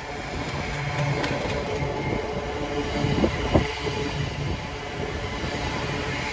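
A train moving, a steady rumble with a couple of sharp clanks about three to three and a half seconds in.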